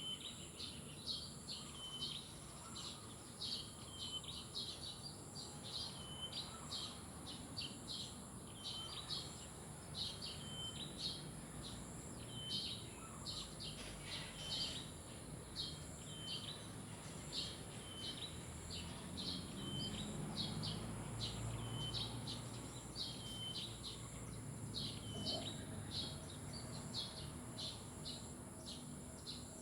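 Small birds chirping, short high chirps repeating about twice a second over a steady high hiss, with a faint low rumble swelling up in the middle.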